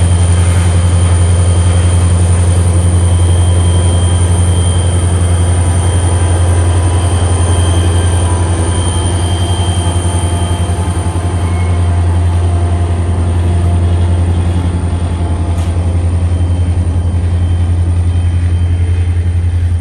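A long freight train, an Indiana Rail Road grain and intermodal train, rolling past: a loud, steady low rumble from the passing cars and trucks, with a faint high thin wheel squeal at times.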